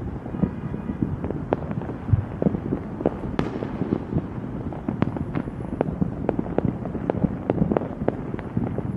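Fireworks going off: a rapid, irregular string of sharp pops and bangs, several a second, over a low rumble.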